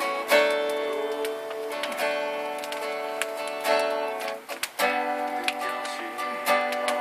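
Acoustic guitar strumming chords in a steady rhythm, with a brief break in the strumming about four and a half seconds in before the next chord rings out.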